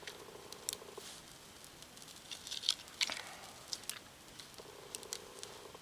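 Small campfire tinder burning with faint crackles and sharp snaps, a louder cluster about three seconds in, over a faint steady hum that drops out for a few seconds in the middle.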